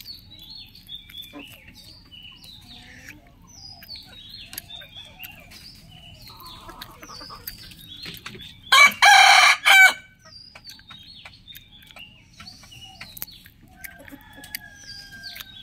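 Small birds chirping again and again, and one loud, drawn-out call with several pitches lasting about a second and a half, a little before the middle.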